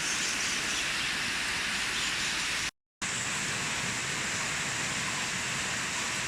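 Heavy rain falling steadily. It cuts out to silence for a moment nearly three seconds in.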